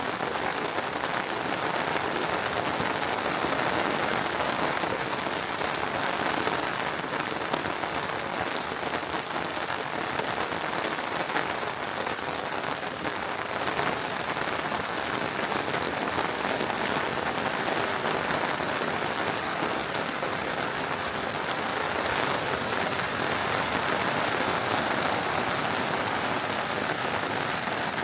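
Steady rain falling, a continuous hiss dense with small drop ticks, holding even throughout.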